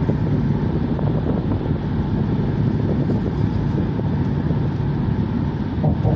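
Steady road and engine noise of a car being driven, a continuous low rumble heard from inside the moving car.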